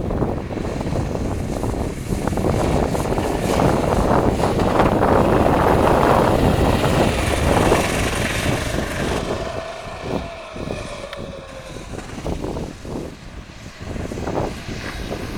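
Sodi RT8 go-kart engine running hard, building to its loudest around the middle, then falling away about nine seconds in with a dropping pitch, as on lifting off the throttle.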